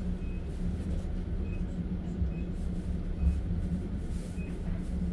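Steady low rumble of a moving passenger train heard from inside a platskart sleeper carriage: wheels running on the rails and the carriage body vibrating. A faint short high chirp recurs about once a second.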